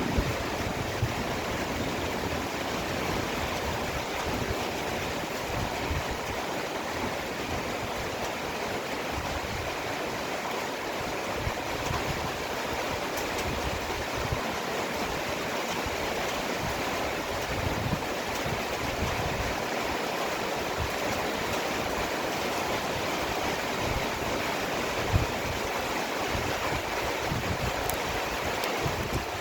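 Heavy rain pouring steadily in a downpour, with an uneven low rumble of wind underneath and a few sharp taps of drops striking something nearby, the loudest about 25 seconds in.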